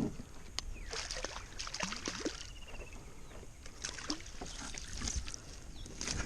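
Water splashing and lapping around a fishing kayak, with scattered light knocks and clicks of gear against the hull.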